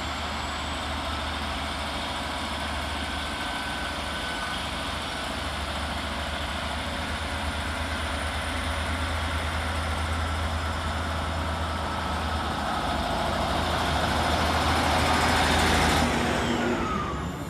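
Class 153 diesel railcar's underfloor diesel engine running under power as the unit pulls away from the platform. It grows steadily louder for about fifteen seconds, then falls away suddenly near the end.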